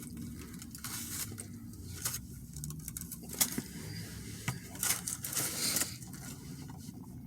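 Quiet eating and food-handling noises: faint rustling and scattered small clicks and taps over a low steady hum.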